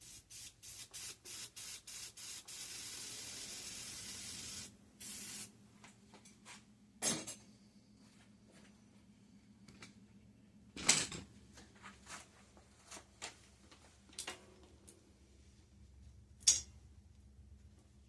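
Aerosol can spraying in a quick run of short squirts, then one steady spray of about two seconds and a last short squirt. A few sharp metal knocks follow later, with the loudest near the middle.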